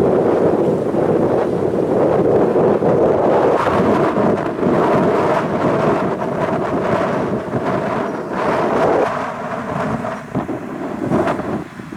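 Strong gusting wind buffeting the microphone, a loud, dense rumble that eases slightly near the end.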